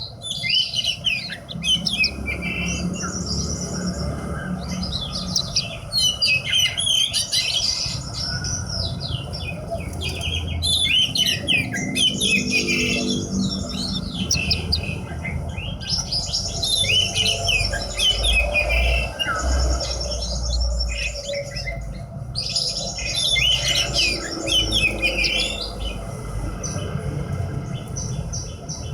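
Horsfield's bush lark (branjangan) singing long runs of rapid, varied chirps and trills, with two brief pauses in the second half, over a steady low rumble.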